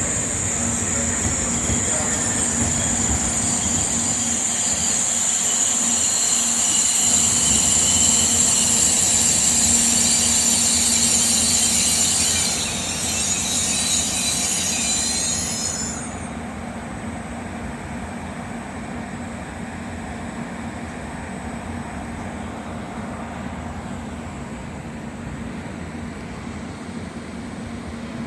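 N700S Shinkansen train slowing into the platform with a loud high-pitched squeal from its brakes and wheels. The squeal cuts off suddenly about sixteen seconds in as the train comes to a stop. A steady lower hum from the standing train remains.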